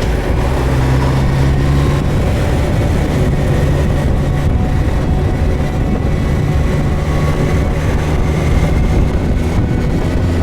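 Suzuki GSX1250FA motorcycle's inline-four engine running steadily under way, over a continuous rush of riding noise.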